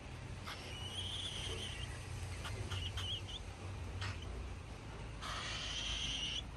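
Baby cockatiel chick's raspy food-begging calls: a long rasping call about half a second in, a few short choppy ones around three seconds, and another long one near the end.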